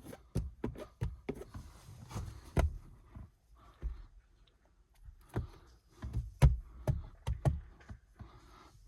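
Irregular knocks, taps and thuds, more than a dozen, like objects being handled and set down, with a quieter stretch in the middle.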